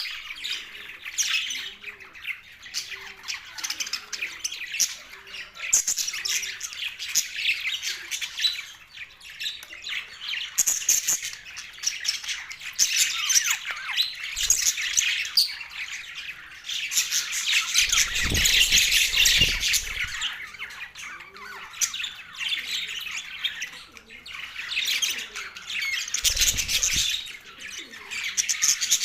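Budgerigars chirping and chattering without a break in a dense, high-pitched warble, busiest a little past the middle. A brief low rumble comes twice, once mid-way and once near the end.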